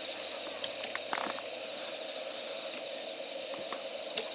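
Wood campfire burning: scattered small crackles and pops over a steady hiss, with a steady high-pitched tone alongside.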